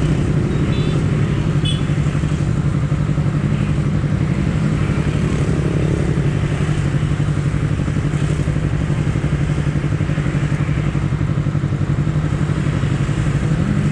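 Honda CBR250RR parallel-twin engine running at a steady speed while riding, its pitch held level, with a slight rise in revs near the end.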